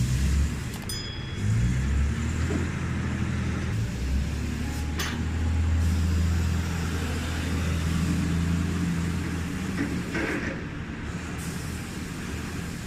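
Scania R-series truck's diesel engine running, a low steady drone that swells and eases several times, with a couple of short sharp noises over it.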